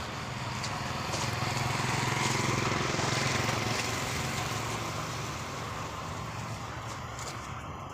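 Diesel truck engine running steadily; it grows louder for a couple of seconds about a second and a half in, then eases off.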